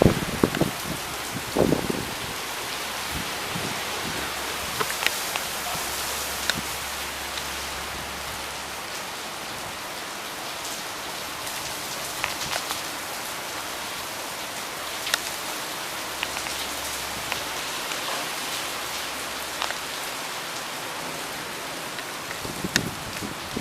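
Steady heavy rain pouring down, an even hiss with scattered sharp drop hits. No thunder.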